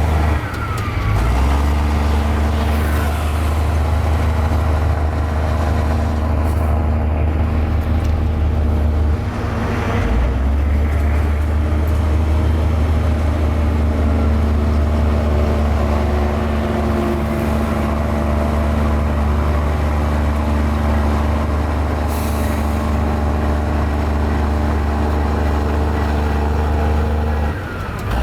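Mini Komatsu bulldozer's diesel engine running steadily and loudly under load, with a brief dip in engine note about a third of the way in and a faint squeal near the start.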